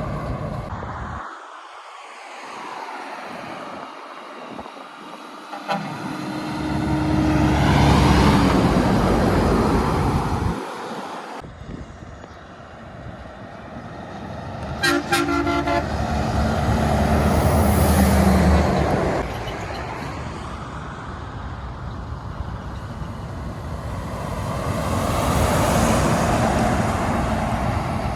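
Heavy trucks driving past on a road one after another, engine and tyre noise swelling and fading with about three pass-bys. About halfway through, a short horn toot sounds over a passing truck.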